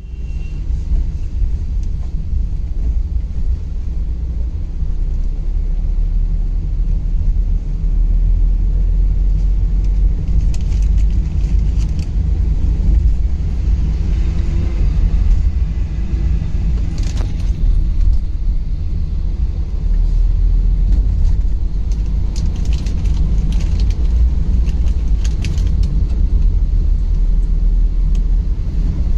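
Car being driven: steady low rumble of road and engine noise, with scattered short sharp ticks in the middle and later part.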